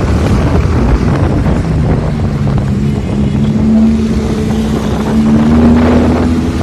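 Lamborghini Huracán's V10 engine and exhaust running under load, the note climbing slowly in pitch as the car accelerates, with wind buffeting the microphone early on.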